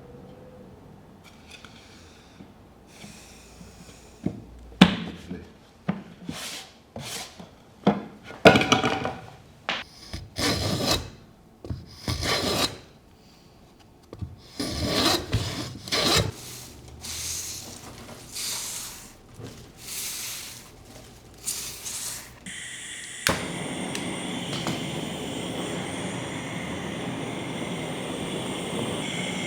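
Irregular strokes of something rubbing or scraping across wood, like hand sanding or brushing. About three-quarters of the way through they give way to a steady hiss with a faint whine.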